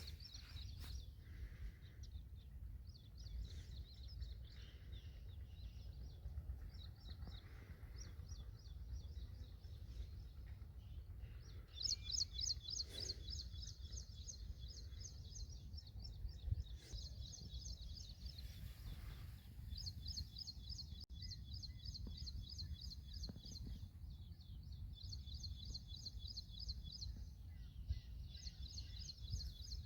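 Bird calling in rapid high-pitched trills, repeated in bouts of a few seconds with short gaps, over a steady low rumble.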